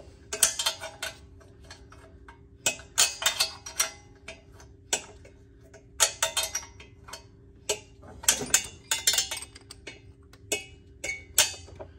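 Metal hand tools clinking and rattling in short bursts, about five times, over a faint steady hum.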